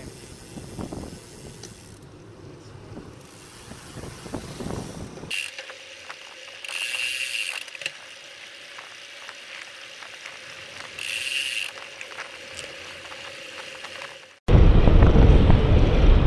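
Bicycle freewheel hub ticking as the bike coasts, after about five seconds of low wind and road rumble. About fourteen and a half seconds in, a sudden, much louder rush of noise takes over.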